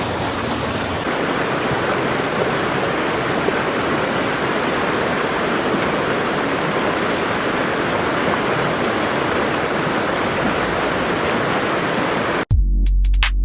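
The Loup of Fintry, a waterfall on the River Endrick cascading down several levels of rock, giving a steady, dense rush of falling water. Near the end it cuts off sharply and electronic music with a heavy bass beat starts.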